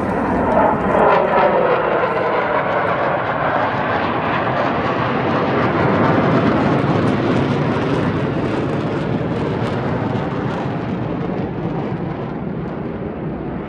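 Mitsubishi F-2 fighter's jet engine flying past: a loud, steady jet rush with a whine that falls in pitch about a second in, easing off slightly near the end.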